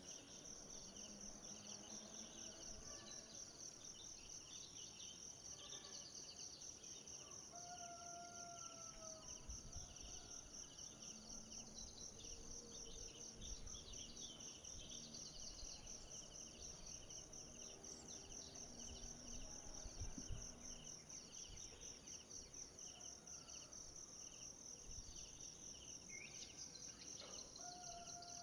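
Faint forest ambience: a steady, high-pitched insect chorus with a fast, even pulse. A bird gives a short whistled call, slightly falling in pitch, once early on and again near the end, and there is a soft low knock about two-thirds of the way through.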